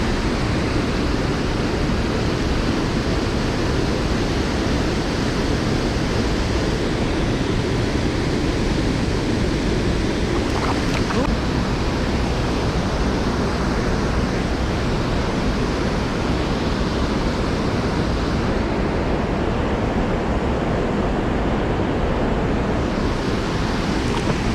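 Steady rushing of falling creek water at a waterfall, a constant loud roar.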